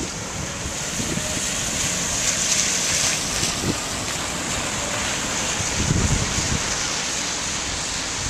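Steady rushing hiss of Hurricane Irene's storm wind, with low gusts buffeting the microphone now and then.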